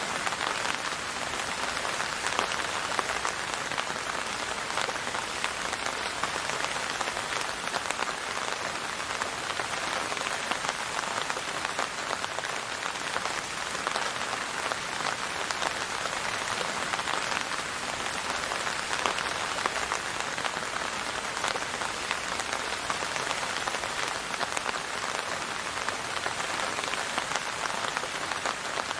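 Steady rain falling, a dense even hiss with many fine drop patters and no let-up.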